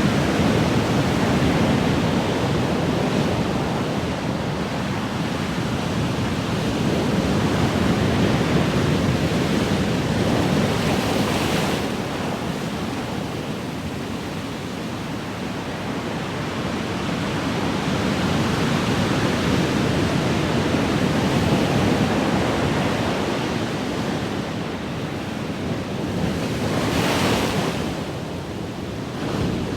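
Ocean waves washing in continuously, swelling and easing every several seconds, with a brief brighter hiss of a wave breaking about a third of the way in and again near the end.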